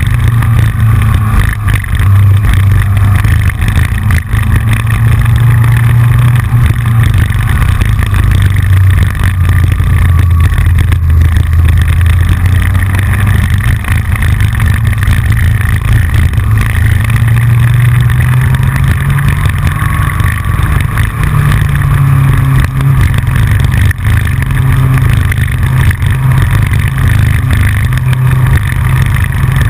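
Yamaha FJR's inline-four engine running steadily at road speed, heard from the front fairing, with its pitch rising slightly now and then. A loosely fitted fairing-mounted camera adds a constant clicking and rattling over it.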